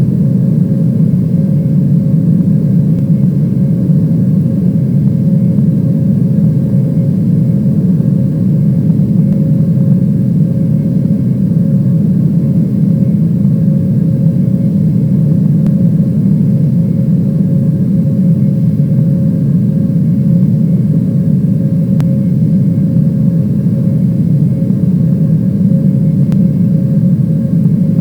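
Steady airliner cabin noise: a loud, even rumble of engines and airflow, with a faint constant hum above it.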